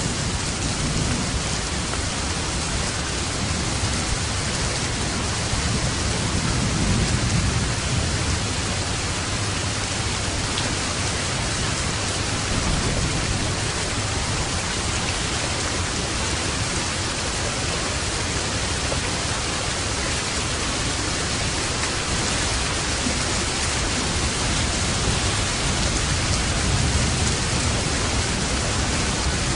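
Steady, heavy rain hissing, with low rumbles of distant thunder swelling about six seconds in and again near the end.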